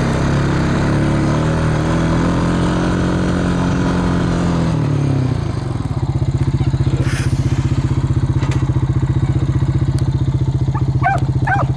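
Vehicle engine running, dropping to a steady, pulsing idle about five seconds in. Near the end come a couple of short high dog yelps.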